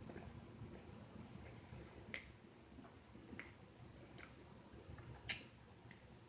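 Faint, sparse mouth clicks and lip smacks of a person chewing food, four sharp ticks spread a second or more apart, the loudest about five seconds in.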